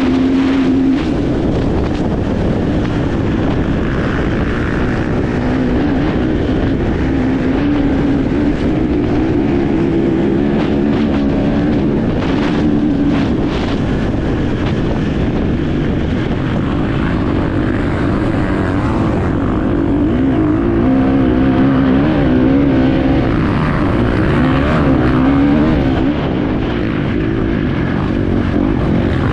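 Enduro dirt bike engine heard on board while racing, revving up and down with the throttle as the rider works through the course, with wind noise and a few sharp knocks from the bike over rough ground.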